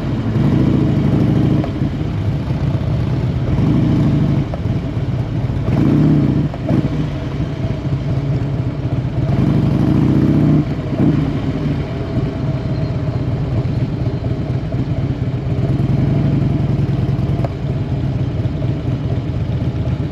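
Motorcycle engine running under way, with the throttle opened and eased several times, swelling louder for a second or so each time.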